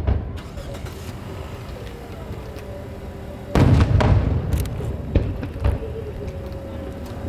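Aerial fireworks shell bursting: one deep boom about three and a half seconds in that rolls on for about a second, followed by a few sharp cracks.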